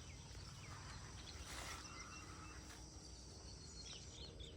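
Faint outdoor dawn ambience: a steady high insect drone with scattered short bird chirps, and a brief rustle about one and a half seconds in.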